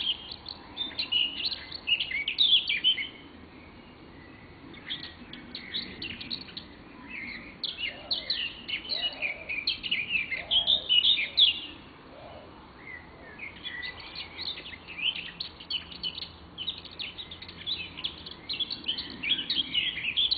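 Birds chirping and twittering in rapid, high phrases, broken by short lulls about three seconds in and again about twelve seconds in.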